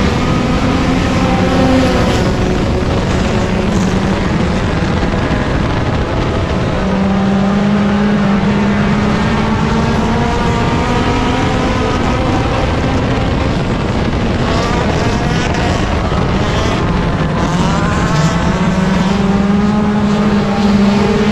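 Front-wheel-drive dirt-track race car engine running hard at speed, its pitch dipping and climbing again a few times as it goes around the track.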